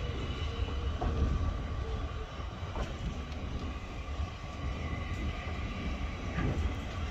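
Passenger train running slowly, heard from an open carriage window: a steady low rumble of carriage wheels on the track with a few faint clicks.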